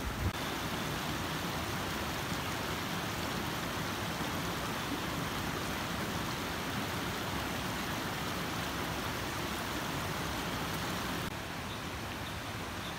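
Steady rushing noise, even and without distinct events, dropping in level about eleven seconds in.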